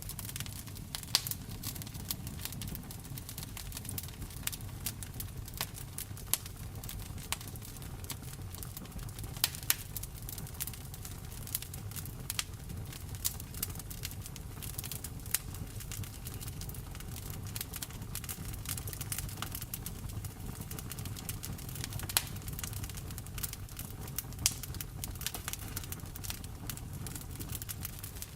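Wood fire crackling in a fireplace, with frequent irregular sharp pops and snaps, over a steady low rushing noise of rain.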